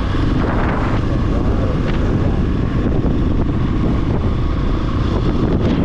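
Large single-cylinder dual-sport motorcycle running under way, with wind buffeting the microphone.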